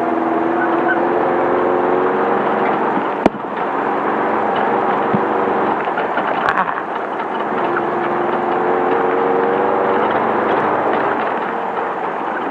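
Air-cooled 1600 cc Volkswagen flat-four of a Class 5/1600 desert-racing bug running under load, its pitch rising and falling with the throttle. A sharp knock about three seconds in and a lesser one about six and a half seconds in.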